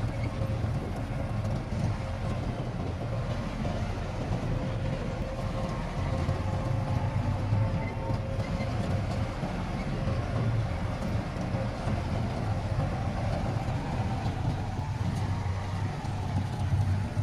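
Diesel engine of heavy earthmoving machinery running steadily, a low rumble with a faint steady whine above it.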